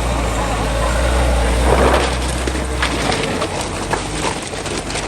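Off-road 4x4's engine running with a steady low rumble under a rushing noise, the rumble easing about three seconds in, with scattered knocks and rattles.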